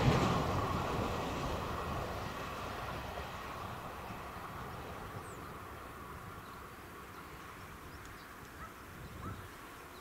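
A passenger train moving away after passing a level crossing, its rumble fading steadily. A few faint bird chirps come in the second half.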